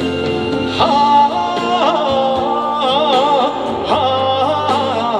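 Live trot band accompaniment, a melodic fill with vibrato over sustained backing chords between sung lines.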